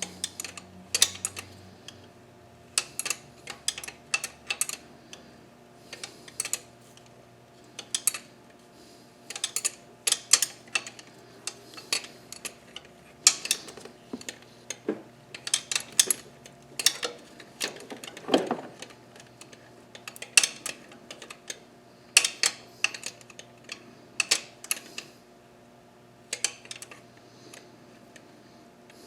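Hand tools working on metal engine parts: irregular bursts of quick clicks and metallic clinks, with short pauses between, over a faint steady hum.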